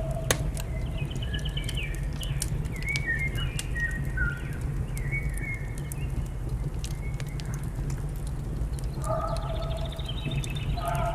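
Wood fire crackling with scattered sharp pops over a steady low rumble, while small birds chirp and trill. About nine seconds in, a longer, lower-pitched bird call with several overtones begins.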